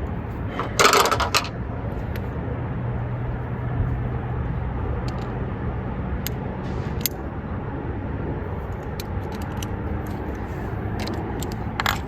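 Metal hand tools clinking while a socket and ratchet are fitted under a car's hood, with a loud metallic jangle about a second in and light clicks after it, over a steady low hum.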